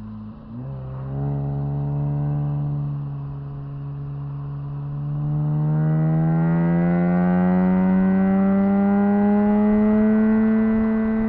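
Lexus IS200's 1G-FE two-litre straight-six, heard from inside the car, running through an exhaust with no catalytic converters and a stainless muffler. The engine note drops and dips briefly near the start, holds steady, then rises steadily and gets louder over the last several seconds as the car accelerates.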